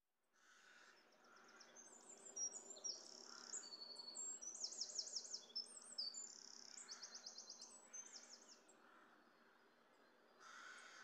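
Faint small birds chirping, with quick trills of short, rapidly repeated high notes, mostly between about two and eight seconds in.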